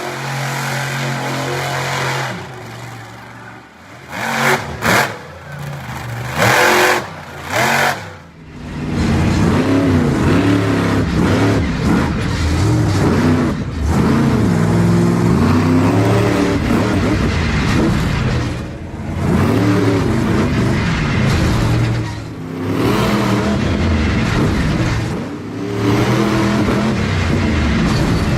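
Monster truck engine revving hard again and again, its pitch climbing and falling in waves. A few seconds in, before the revving, there are several short loud bursts.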